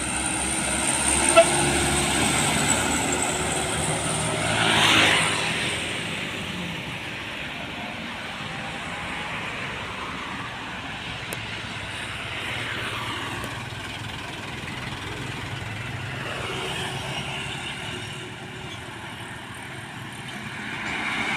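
Road traffic passing close by: vehicle engines and tyres go by one after another over a steady drone, the loudest pass about five seconds in, with a short sharp click near the start.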